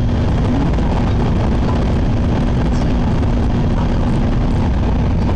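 Steady running noise heard inside a Shinkansen passenger car: an even, loud low rumble of the train travelling on the line, with a constant hum under it.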